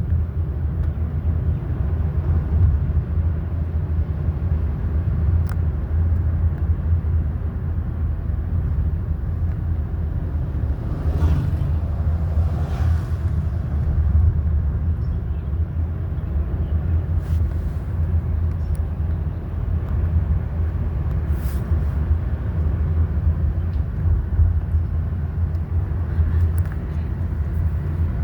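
A car driving, its engine and tyres making a steady low rumble, with a brief rise in the noise about eleven to thirteen seconds in.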